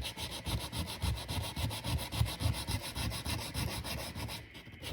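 220-grit sandpaper scuffing a metal gasket surface by hand in quick back-and-forth strokes, roughening it so the new gasket and its adhesive grip. The strokes pause briefly near the end.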